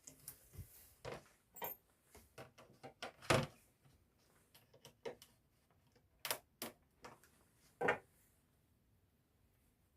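Irregular knocks and clicks of hand work with tools, plywood and a pitchfork, about a dozen sharp separate strikes, the loudest about three and a half and eight seconds in.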